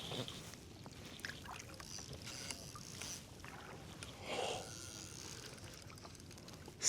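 Faint water lapping and splashing around a fishing kayak, with scattered small clicks and knocks and a brief louder splash about four seconds in.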